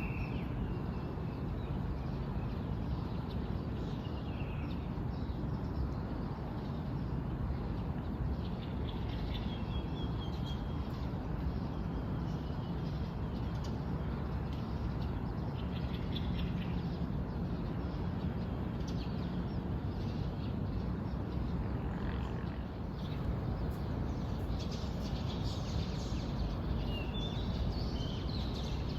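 Several small birds chirping and calling in short scattered phrases, over a steady low background noise.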